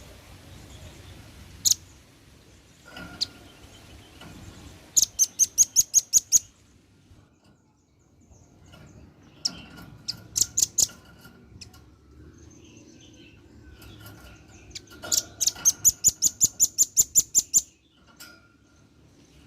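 A male velvet-fronted (red-billed) nuthatch calling. It gives quick runs of sharp, high chip notes, about six a second, in three bouts with single notes between. The longest bout comes near the end.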